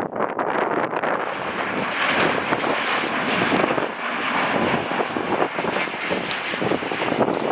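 Jet airliner engines producing steady, loud noise, with gusting wind buffeting the microphone.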